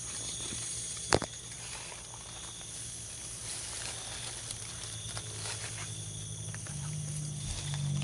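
Steady high-pitched insect buzz with a soft hiss and light rustling, broken by one sharp click about a second in.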